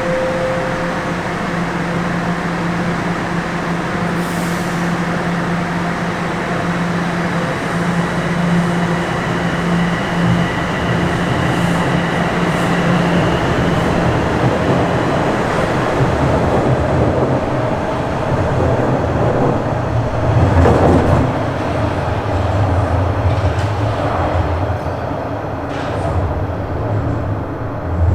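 Bombardier Toronto Rocket subway train running through a tunnel, heard from inside the car: continuous wheel-on-rail rumble with a steady motor hum that drops to a lower hum about halfway through, growing louder for a moment about twenty seconds in.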